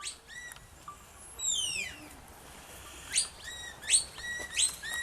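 A shepherd whistling commands to a working sheepdog: a series of short, sharp whistle notes, some sweeping up and held briefly, a run of quick falling notes in between.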